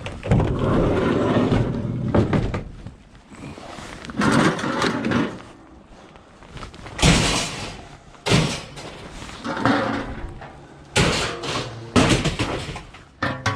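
A run of bangs, thuds and scraping from heavy objects being handled, with several separate sharp knocks in the second half.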